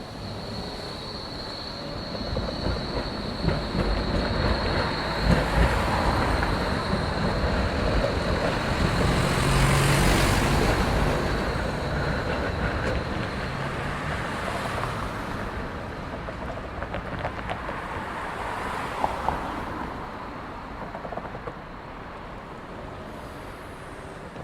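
A train passing by: a rumble with rattling that builds over about ten seconds and then slowly fades, with a steady high whine over the first few seconds.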